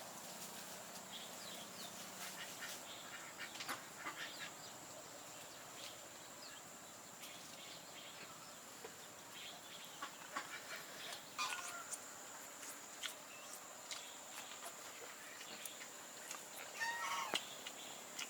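Chickens clucking faintly, among scattered light clicks and taps, with a short pitched call near the end.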